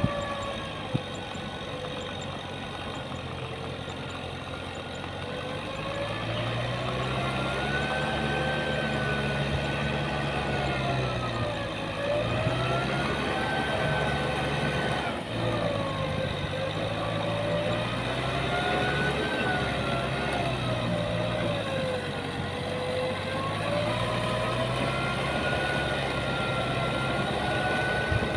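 Diesel engine of heavy farm or earthmoving machinery running under load, its pitch rising and falling again and again every few seconds.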